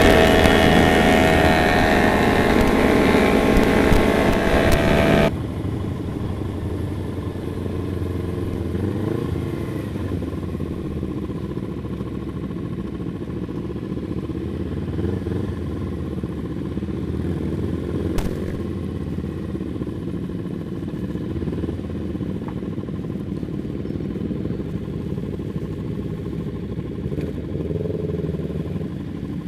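Motorcycle engine running under way for the first five seconds or so, then cutting off abruptly to a quieter, steady low engine rumble with a single sharp click about two-thirds of the way through.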